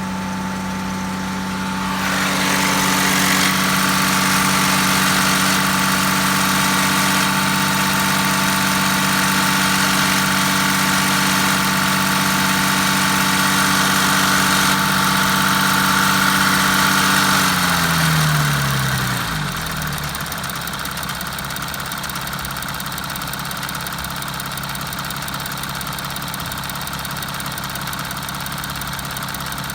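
The weird noise from an Audi Q7 272 hp: a steady mechanical hum with a whine above it that grows louder about two seconds in. It runs evenly until about 17 seconds in, then drops in pitch and winds down over about two seconds, leaving a quieter steady running sound.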